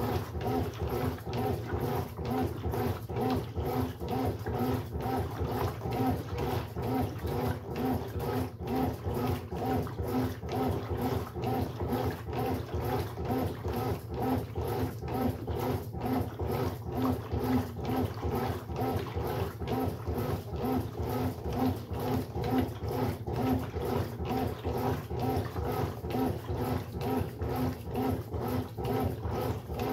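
Brastemp Sexto Sentido 8 kg washing machine running a wash cycle: a steady mechanical churn with an even pulsing rhythm of about two beats a second.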